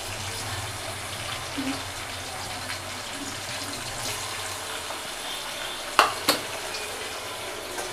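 Onions sizzling steadily in hot oil in a cooking pan, with two sharp knocks a fraction of a second apart about six seconds in.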